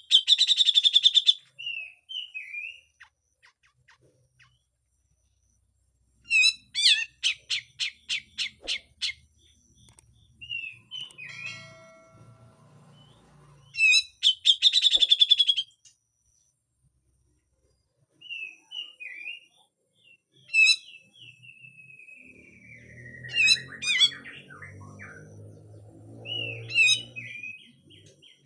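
Grey-cheeked bulbul (cucak jenggot) calling: three loud bursts of fast, harsh rasping notes (the 'besetan'), each one to two seconds long, with short chirps between them and a long falling whistle about two-thirds of the way through. A faint low hum sits under the second half.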